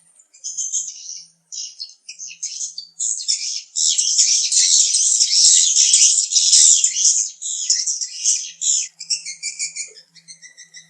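Swiftlets twittering: rapid, high-pitched chirps that run nearly unbroken for several seconds, then thin out into short separate chirps near the end. It is the kind of swiftlet call played to draw the birds into a nesting house.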